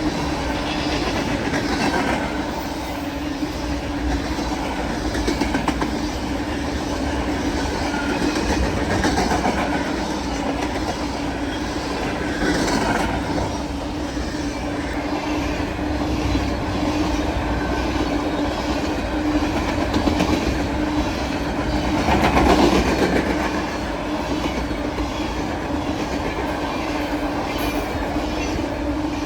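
Freight train cars rolling past, steel wheels clicking rhythmically over rail joints, with a steady hum running under the rolling noise.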